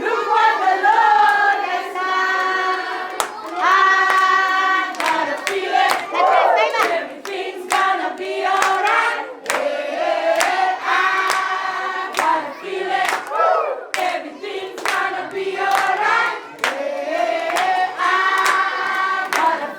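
A group of children singing together in unison, clapping their hands in a steady rhythm.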